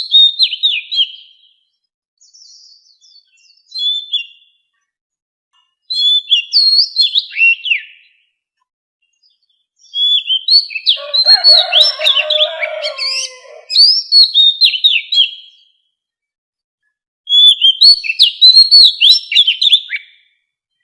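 Oriental magpie-robin singing: bursts of rapid, sliding whistled notes separated by short silences, with about six phrases, the longest lasting several seconds in the middle. During that long phrase a lower, rougher sound runs underneath.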